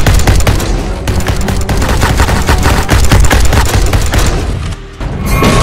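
Sound-effect machine-gun fire from a robot's arm blaster: a fast, unbroken run of shots over background music that stops abruptly near the end, followed by a new blast effect with a high ringing tone.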